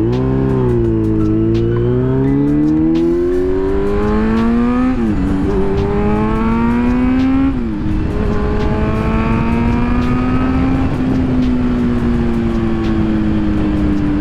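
Kawasaki Z900's 948 cc inline-four engine accelerating hard while being ridden. The revs climb and drop sharply at upshifts about five and seven and a half seconds in, then rise slowly and settle at a steady cruise, with a low rush of wind noise underneath.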